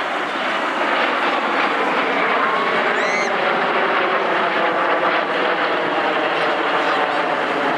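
Jet noise from a formation of BAE Hawk T1 trainer jets with Rolls-Royce Adour turbofans flying over, a loud steady rushing sound. A short rising whine comes in about two to three seconds in.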